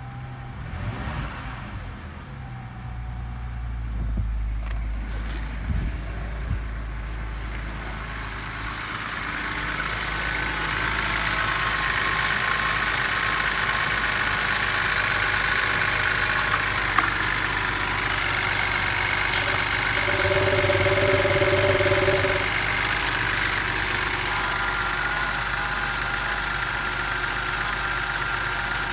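BMW N52B25 2.5-litre straight-six engine running at idle, a steady hum that grows louder about a third of the way in and then holds even, with a few light clicks early.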